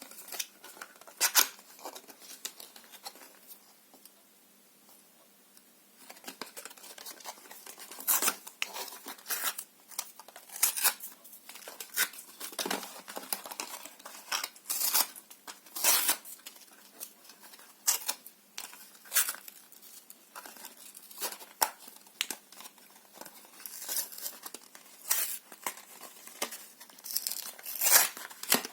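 Paper being torn in a series of short rips, with some crinkling: a few rips at the start, a pause of about three seconds, then rips about once a second.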